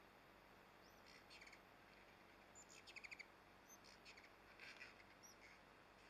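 Faint wild bird calls: short, rapid chattering trills and a few small upslurred chirps, the loudest a quick run of about six notes around three seconds in, over a faint steady hiss.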